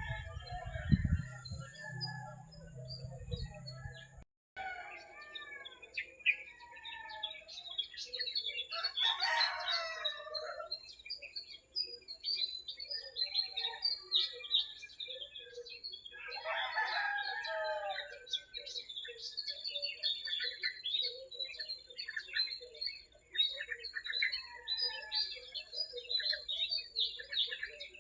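Small birds chirping continuously, with a rooster crowing twice, about 9 s and about 16.5 s in, each crow falling in pitch. A low rumble in the first few seconds stops at an abrupt cut.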